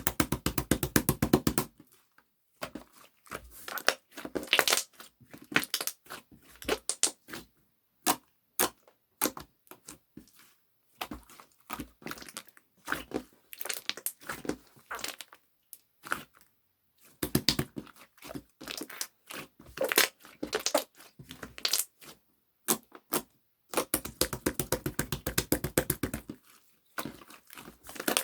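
Crisp handling sounds: crackling, crunching and sharp clicks, coming in irregular clusters, with fast runs of rapid ticks near the start and again near the end.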